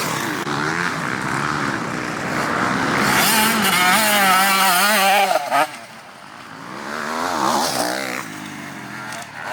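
Motocross dirt bike engines revving, their pitch rising and falling quickly with the throttle. They are loudest around the middle, drop away sharply just past it, then build again.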